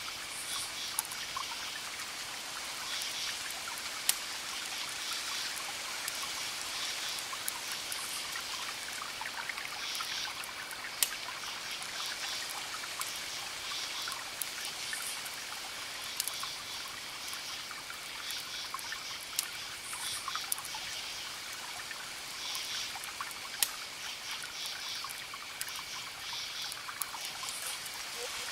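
Wood fire crackling, with scattered sharp pops, over a steady trickling-water hiss. Short high chirps recur every second or two over a faint steady high tone.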